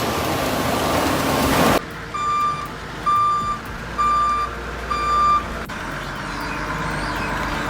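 Vehicle reversing alarm beeping four times at an even pace, over a low machine hum. Before the beeps, a loud rushing noise cuts off abruptly.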